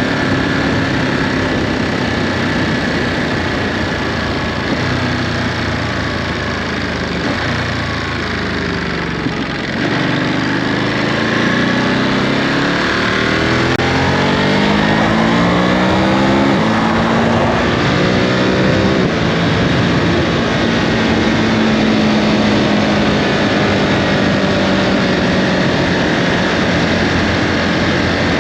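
Ducati Monster 937's 937 cc Testastretta L-twin running through its stock Euro 5 exhaust while riding. The engine eases off briefly about a third of the way in. It then pulls hard, its pitch rising for several seconds, and settles into a steady cruise.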